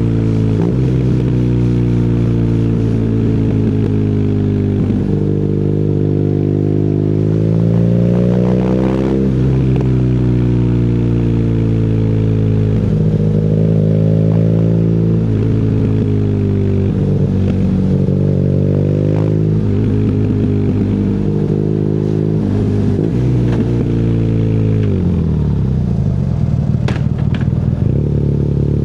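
BMW R nineT's boxer twin through an Akrapovic exhaust, under way on the road, its pitch rising and falling with throttle and gear changes. One long climb in revs ends in a sudden drop about a third of the way in, and near the end the revs fall away to a lower, rougher note.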